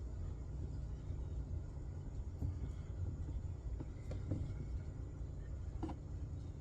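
Steady low rumble with a few light clicks and knocks scattered through it.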